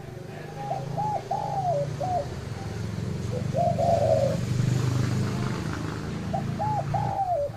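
Spotted dove cooing in phrases of several notes: one phrase about a second in, a shorter one around the middle, and another near the end. A steady low hum runs underneath.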